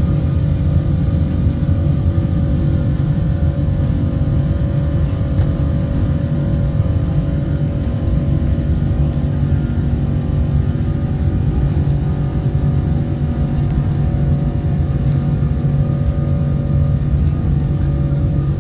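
Boeing 777-200ER jet engines running: a loud, steady low rumble with several steady humming tones over it.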